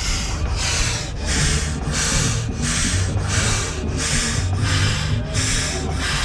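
1914 Wallis & Steevens general-purpose steam traction engine chuffing steadily: hissing exhaust beats at a slow, even rhythm of about one and a half to two a second, over a low rumble.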